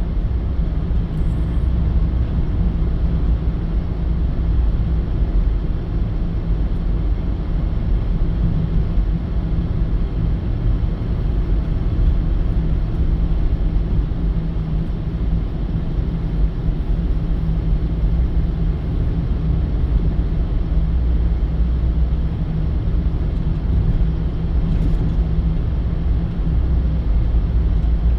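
Steady low rumble of a running vehicle, with a few constant low tones and no change in pitch.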